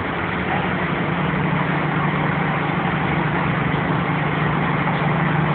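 A large emergency truck's engine idling with a steady low hum.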